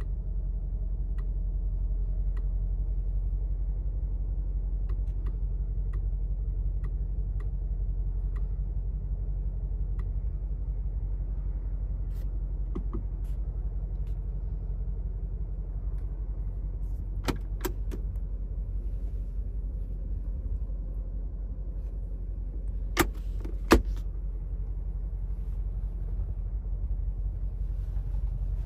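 Mercedes-AMG G63's 4.0-litre twin-turbo V8 idling with a steady low rumble. Two pairs of sharp clicks come in the later part, the second pair the loudest.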